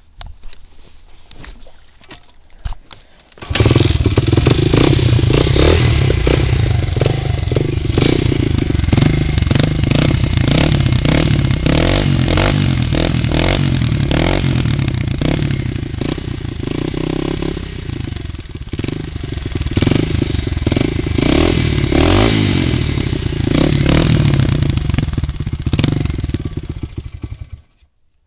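Honda XR100 four-stroke single-cylinder dirt bike engine starting after a few short knocks, then running loud through a Pro Circuit T-4 aftermarket exhaust, its level rising and falling a little with the throttle, and shutting off suddenly near the end.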